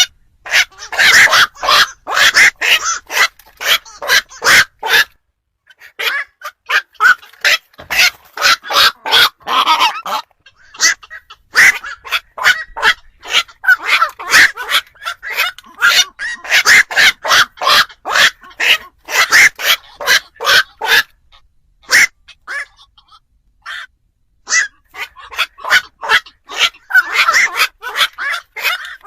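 Black-crowned night heron calls: harsh, short croaking squawks repeated rapidly, about three a second, in long runs broken by brief pauses about five seconds in and again near the twenty-second mark. Played as a lure call for trapping night birds.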